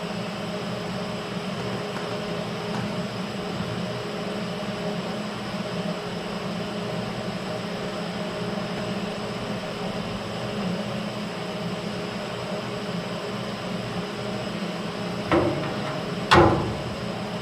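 Steady hum of shop machinery, then two sharp metal knocks about a second apart near the end, the second louder and ringing briefly.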